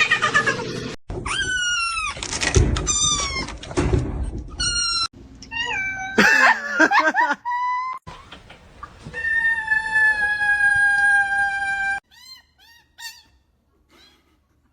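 Cats meowing over and over: short rising-and-falling meows, with one longer drawn-out call in the middle and fainter meows near the end.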